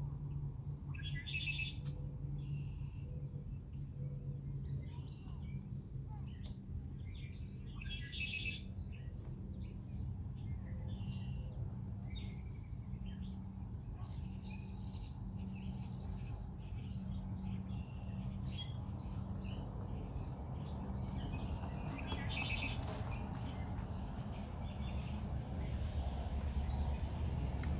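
Red-winged blackbirds calling: a few buzzy, trilled songs (about a second in, around eight seconds and around twenty-two seconds) among short chips and whistles, over a steady low hum. A low rumble builds near the end.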